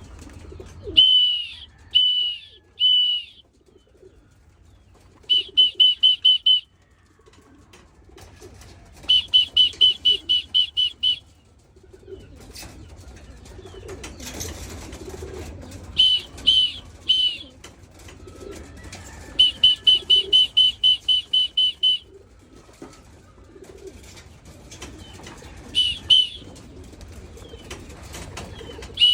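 Racing pigeons at the loft, cooing softly with some wing flapping, under loud runs of short, high whistled notes, several a second, that come in bursts with pauses between them.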